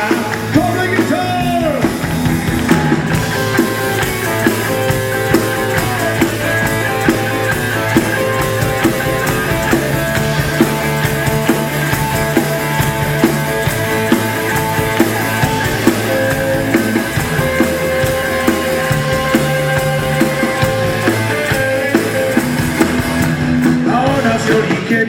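Live rock and roll band playing an instrumental break: drums keeping an even beat under guitar, with long held lead notes.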